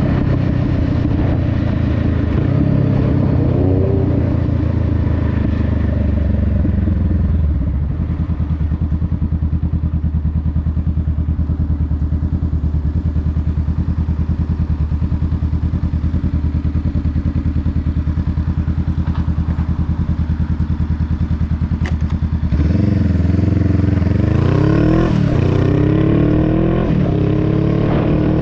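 Honda Rebel 500's parallel-twin engine running steadily at low revs for most of the stretch. About two-thirds of the way through it revs up and accelerates, rising in pitch, with a gear change partway up.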